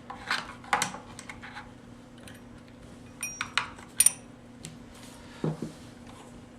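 A metal tool chipping and scraping caked sawdust out of a chainsaw, giving irregular metallic clicks, scrapes and clinks. The loudest is a sharp double clink about four seconds in, and a duller knock follows a little later.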